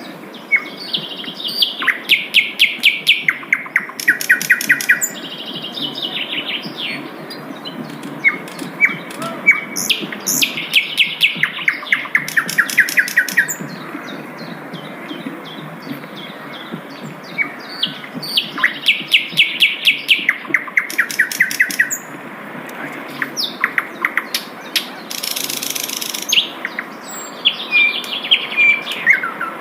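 A sikatan londo singing: bouts of rapid, sharp chirping notes, each run lasting a few seconds, with short pauses between them. A steady low background hiss runs underneath.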